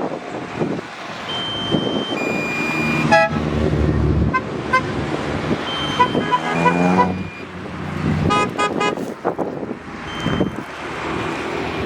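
Cars driving by with engines revving, and car horns tooting in short blasts a few times, loudest about three seconds in and again around eight and a half seconds in.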